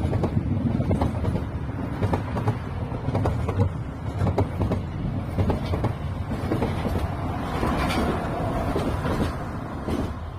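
A freight train rolling past: a steady low rumble with repeated knocks of wheels over the rail joints, and a faint higher tone coming in near the end.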